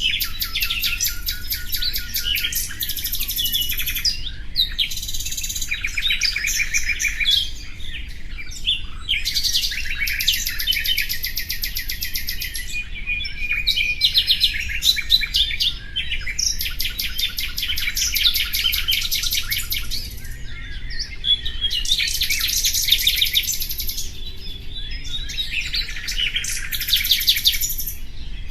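Common nightingale singing: a series of song phrases a few seconds long, each built of fast repeated notes, trills and whistles, with short pauses between them.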